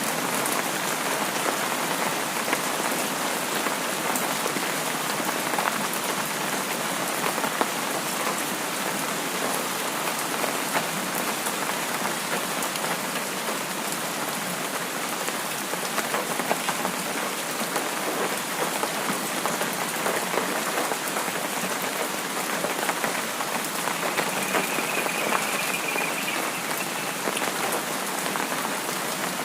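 Steady rain, a dense even hiss of many drops with fine scattered drop ticks, unchanging throughout.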